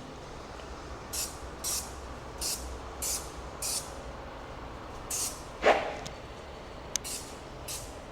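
Aerosol chain lube sprayed onto a motorcycle chain in a run of short hissing bursts, about five in quick succession and then a few more, with one louder short sound a little past halfway.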